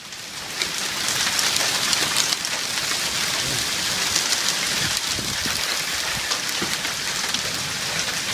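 Hailstorm with heavy rain coming down hard: a dense, steady clatter of many small hits.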